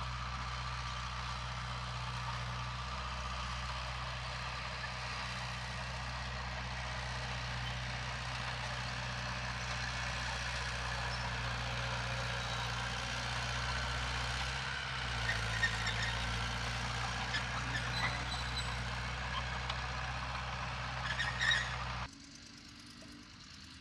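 Heavy earthmoving machinery's diesel engine running steadily under load, with scattered clanks and rattles in the second half; the sound drops off abruptly near the end.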